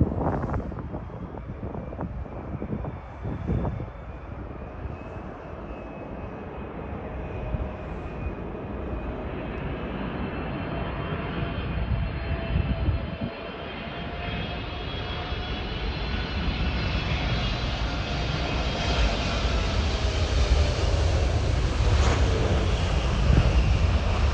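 Jet airliner's engines, their whine growing steadily louder as the aircraft approaches, with the tones slowly dropping in pitch, over a low rumble.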